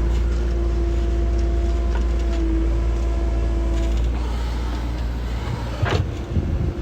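Backhoe loader's diesel engine running under load with a steady whine. About four seconds in, the whine stops and the engine note eases, followed by scattered knocks and one sharp clank near the end.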